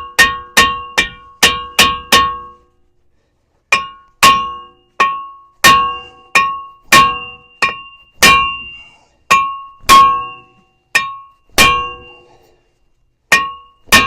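Hammer blows on a pickup's front brake rotor, about two dozen sharp strikes at one or two a second with a short pause early on, the steel disc ringing briefly after each hit. The rotor is stuck on the hub and is being beaten loose.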